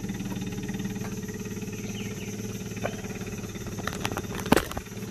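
Small boat's outboard motor running steadily at low speed, with a few sharp knocks about four seconds in.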